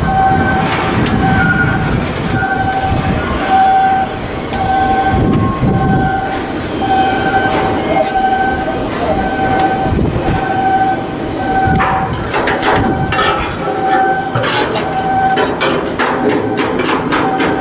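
A shipyard machine's electronic warning beeper repeats about one and a half times a second over a steady rumble of machinery. From about twelve seconds in, sharp metal knocks and clanks, like hammering, come in.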